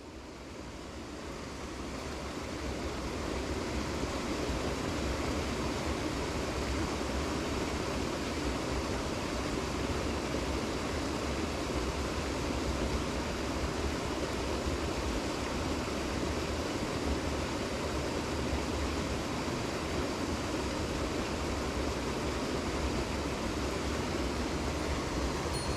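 Steady rush of a mountain stream, fading in over the first few seconds.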